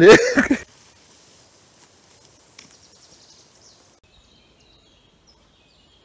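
Faint forest ambience with a thin, very high chirp repeated about four times a second for about three seconds, typical of a small songbird's call. After it, only a few faint distant calls.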